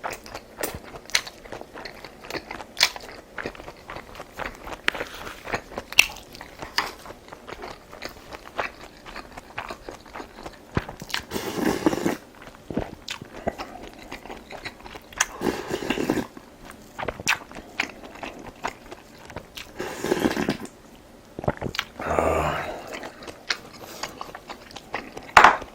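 A person eating, close to the microphone: steady chewing and crunching with many small wet mouth clicks, broken by a few louder, noisier sounds of about a second each.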